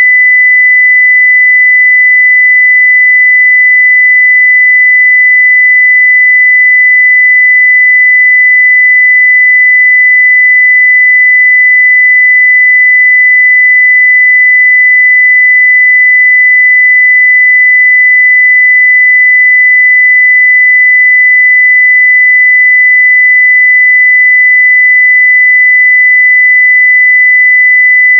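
A 2 kHz sine-wave test tone at full level (0 dB), held steady without a break.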